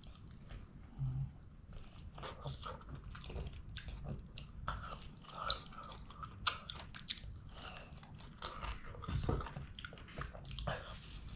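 Close-miked chewing of a mouthful of rice and chicken curry eaten by hand, with many irregular wet mouth clicks.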